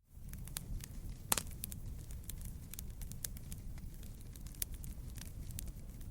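Wood fire in a fireplace crackling, with scattered sharp pops over a steady low rumble of the flames; the loudest pop comes about a second in.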